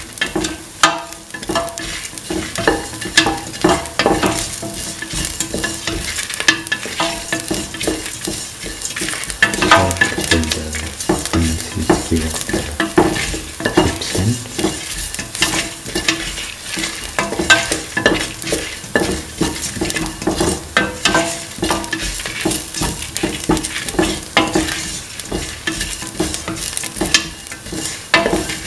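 Onion, garlic, fennel seeds and dried red chillies sizzling in hot oil in a stainless steel pan while being stirred. Frequent irregular scrapes and taps against the metal pan run over a steady sizzle.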